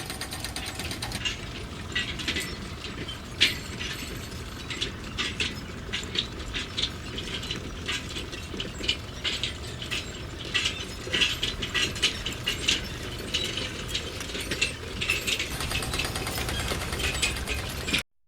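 Irregular sharp mechanical clicks and taps over a steady noisy background, cutting out abruptly near the end.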